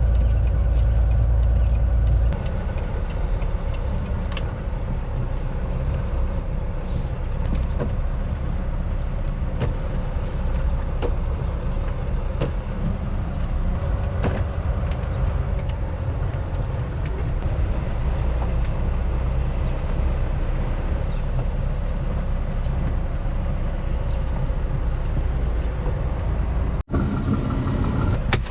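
Semi truck running on the road: a steady low engine drone with road noise, cut off briefly near the end.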